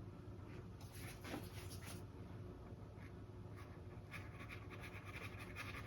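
Paintbrush brushing acrylic paint onto a stretched canvas in soft, scratchy strokes, a light scumbling with a little paint left in the brush, over a faint low hum.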